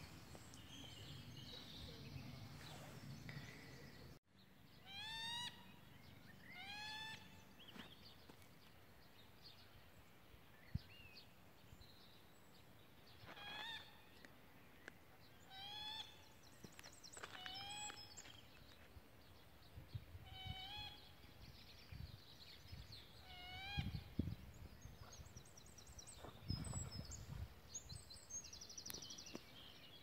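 A bird calling over and over, one short rising note every couple of seconds, against quiet outdoor background with fainter high chirping. The sound cuts out briefly about four seconds in.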